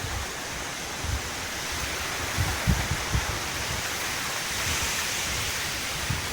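Typhoon wind and driving rain: a steady rushing hiss, with irregular low buffeting thumps from gusts, strongest around the middle.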